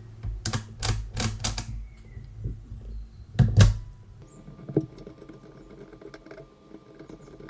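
Sharp metallic clicks from the mechanism of a 1920s Original Odhner pinwheel calculator being worked by hand: a quick run of about four clicks, a louder clatter about three and a half seconds in, then faint ticks.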